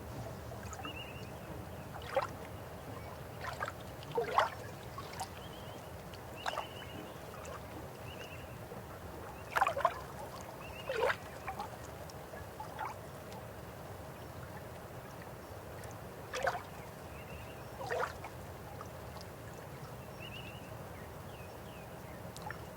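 River water running steadily, with about a dozen short gurgling plops and splashes scattered through it, the loudest about four seconds in and around ten to eleven seconds in.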